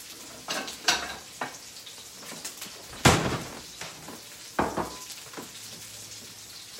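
Turkey bacon and sausage frying in skillets, a steady sizzle, with a series of sharp clinks and knocks of utensils and dishes; the loudest knock comes about three seconds in.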